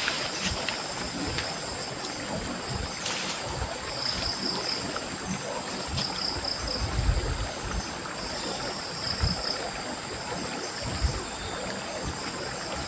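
Steady rush of a small stream with insects trilling high above it, their trill pulsing now and then. A few soft low thumps and clicks, about seven and nine seconds in.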